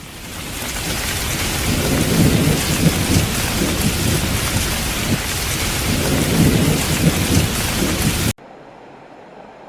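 Heavy rain with rolling thunder, fading in and swelling twice with low rumbles, then cutting off suddenly about eight seconds in, leaving a much quieter steady rushing noise.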